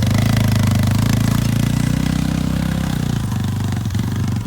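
Engine of a Yamaha quad running steadily at low speed, its note easing slightly about three seconds in.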